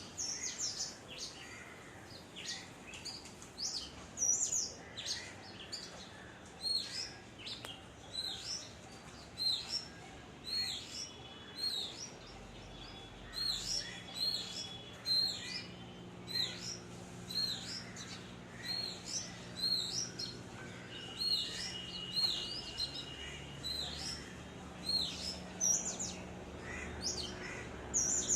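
A chorus of small birds chirping: many short, high chirps overlapping in a constant chatter. A faint, steady low hum sits underneath from about halfway through.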